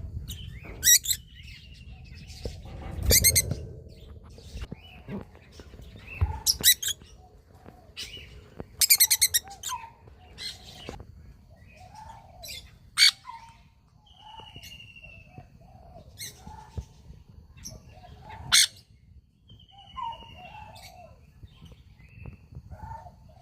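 Cockatiels calling: scattered short, sharp chirps and squawks at irregular intervals, with a few falling whistles.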